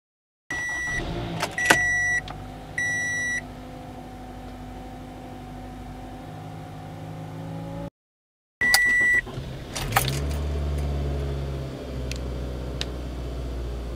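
Two cold starts in turn. A 2014 Toyota Camry LE cranks briefly and settles into a steady idle, with a dashboard chime beeping three times. After a cut, a 2004 Toyota Solara beeps once, cranks a little longer, then suddenly catches and booms into a loud, high idle near 2000 RPM: a cold-start flare the owner puts down to a leaking fuel injector.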